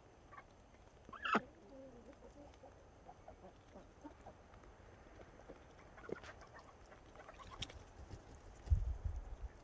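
Backyard poultry calling: one loud call about a second in, then scattered softer clucks and calls. A short low rumble near the end is the loudest moment.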